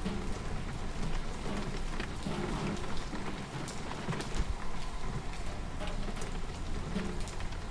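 Steady rain falling, with many separate drops pattering on a surface and a low rumble underneath.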